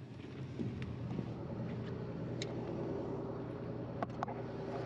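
John Deere 9500 combine running steadily while harvesting soybeans, a low even drone with a hum, with a few light clicks about halfway and again near the end.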